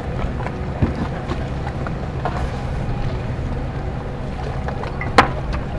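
Onboard noise of a racing sailboat under way: a steady low rumble of wind and water, with a few knocks and a sharp loud one near the end.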